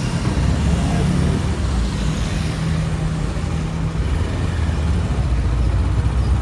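Motorbike engine running steadily amid street traffic, a continuous low rumble.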